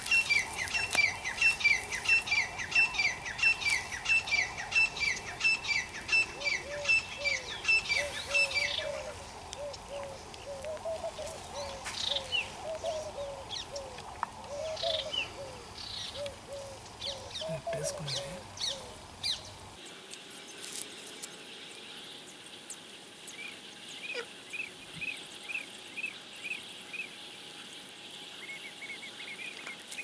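Birds calling: a fast run of high chirps, about two or three a second, for the first nine seconds, with lower repeated notes going on until about nineteen seconds in. After a break near twenty seconds, fainter high chirps come about twice a second.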